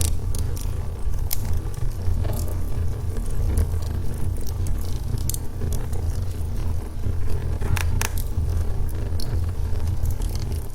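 Logs burning in a fireplace: a steady low noise of the flames, with irregular small crackles and pops from the wood and a sharper double pop about eight seconds in.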